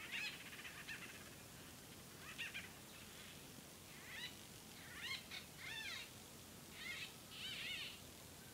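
A bird calling: a faint series of short calls, each rising and falling in pitch, repeated in small groups every second or two.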